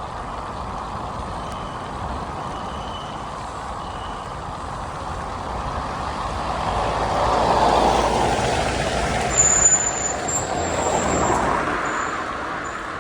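Steady rushing wind and road noise of a bicycle ride, swelling louder from about six seconds in and easing off near the end, with short high squeals near the loudest part.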